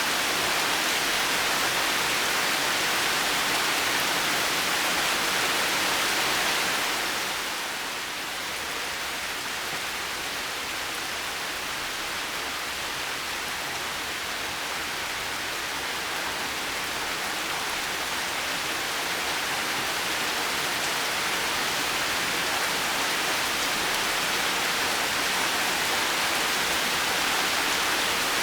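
Steady heavy rain, a dense even hiss of falling water. It eases a little about seven seconds in, then slowly builds back up.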